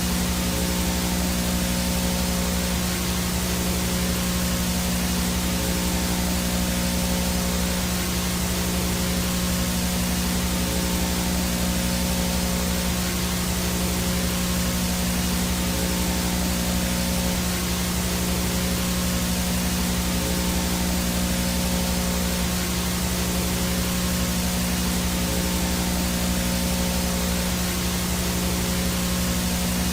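Analog VHS static: an even, unchanging hiss of white noise over a steady low buzzing hum, with a faint high whine.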